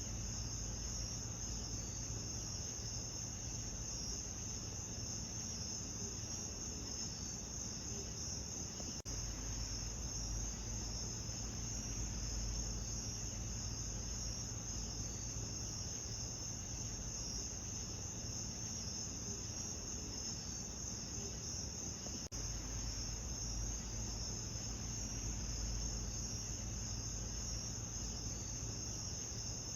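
Continuous chorus of crickets chirping in a high-pitched band over a low steady rumble, with two very brief dropouts.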